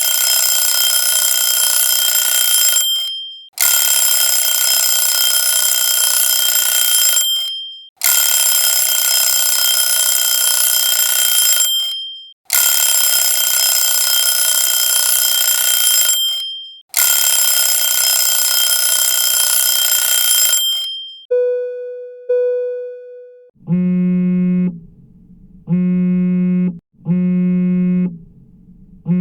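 Countdown-timer alarm ringtone sounding: a loud, bright electronic ring repeats five times, each about four seconds long with short breaks. About 21 seconds in it gives way to two short low beeps, and then a different synthesizer alarm tone starts, pulsing about every second and a half.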